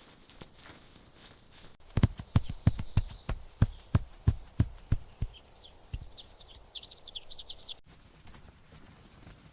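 A run of sharp taps or knocks, about three a second for some three seconds, then a quick string of high bird chirps; the segment starts and stops abruptly.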